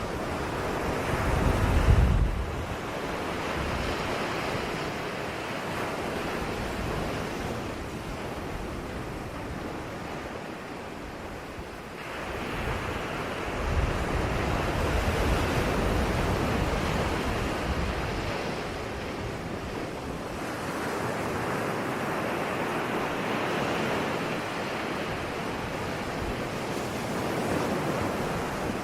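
Ocean surf: waves breaking and washing in, a steady rush that swells and ebbs every several seconds. About two seconds in, a low rumble of wind buffets the microphone.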